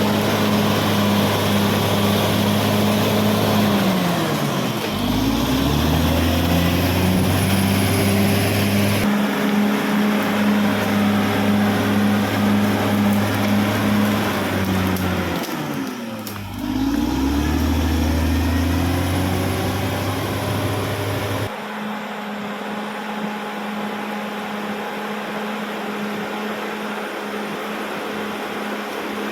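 Caterpillar D6R XL bulldozer's diesel engine running, its pitch dropping and climbing back twice, about five seconds in and about sixteen seconds in. It is steadier and a little quieter for the last several seconds.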